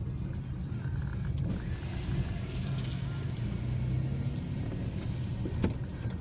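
A car driving, its engine and road noise making a steady low rumble, with a sharp click about five and a half seconds in.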